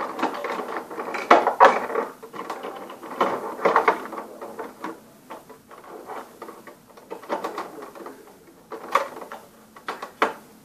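Plastic dolls and a plastic toy car being handled, with irregular clicks, taps and rubbing of plastic on plastic as the dolls are fitted into the seats.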